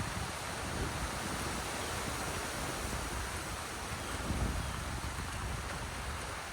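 Steady rain and wind after a thunderstorm, an even hiss, with a brief low rumble about four and a half seconds in.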